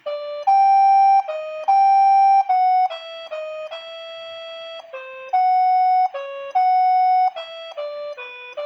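A waltz melody played as a single line on a synthesized instrument with a flute-like tone. The notes start sharply and hold at an even level without fading, and two long high notes, about a second in and about six seconds in, are the loudest.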